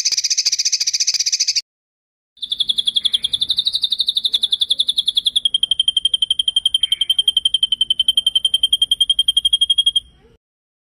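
Recorded songbird trills: a short buzzy trill, then after a brief gap a long, rapid rolling trill of about ten notes a second that steps slightly lower in pitch about halfway through and stops abruptly near the end.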